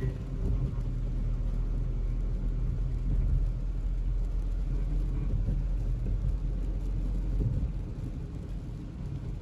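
Steady low rumble of a vehicle driving along the road.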